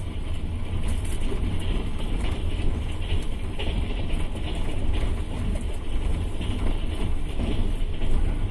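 Double-deck passenger train running at speed, heard from inside the coach: a steady low rumble of wheels on rails, with small clicks and rattles over it.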